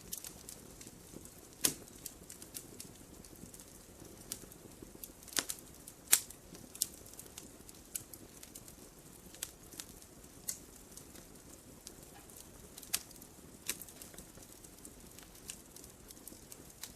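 Burning firewood crackling: irregular sharp pops and snaps over a faint steady hiss, with the loudest pops about two seconds in and about six seconds in.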